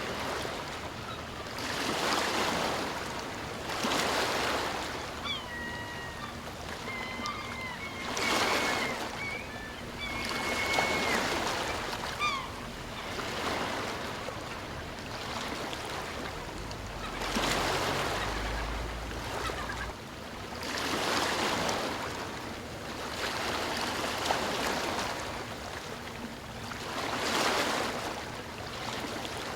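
Sea waves washing in and drawing back, swelling every few seconds. A few short, thin bird calls come between about five and twelve seconds in.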